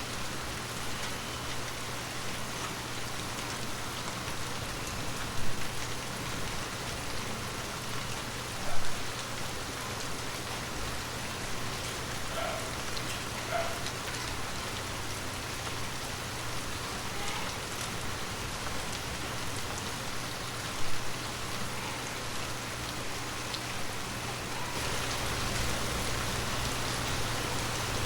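Heavy rain falling steadily on surfaces, an even hiss of drops, with three brief louder hits scattered through it and the downpour getting slightly heavier near the end.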